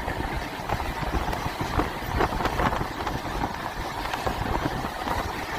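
Moving train running on the track: a steady low rumble with irregular clattering and knocking of wheels and running gear.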